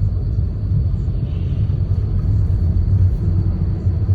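Steady low rumble of a motor vehicle running, with a faint engine hum coming in about three seconds in.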